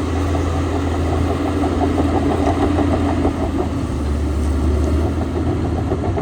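Heavy diesel engine of an earthmoving machine, a Shantui DH17 C2 bulldozer, running steadily with a deep hum and a fast, even pulsing beat.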